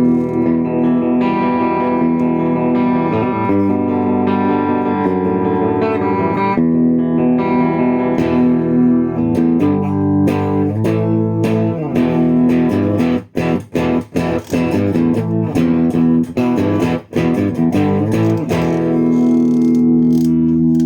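Electric guitar, a Stratocaster with a Tonerider Birmingham pickup, played through the VLA Green Spirit effects pedal into a Mesa Boogie Rectifier amp on its clean channel. Ringing chords and single notes, with a run of short, choppy strokes in the middle, ending on a held chord.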